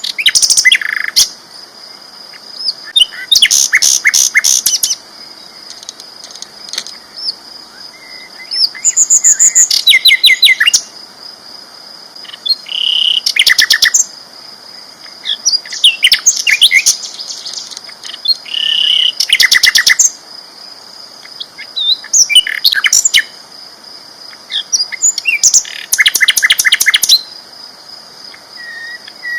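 Sikatan londo flycatcher singing loudly and continuously, a rapid high trilled phrase repeated every two to three seconds, with short whistled notes between. A steady high-pitched whine runs underneath.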